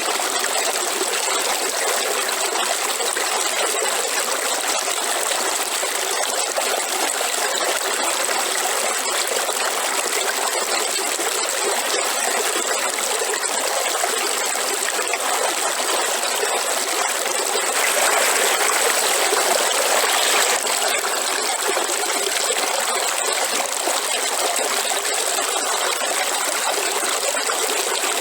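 Waterfall: falling water rushing steadily, swelling slightly for a couple of seconds about two-thirds of the way through.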